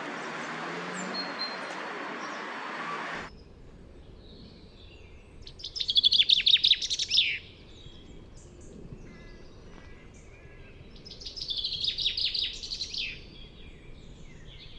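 A songbird singing two phrases of rapid high notes, each about two seconds long and several seconds apart. It opens with about three seconds of steady noise that cuts off suddenly.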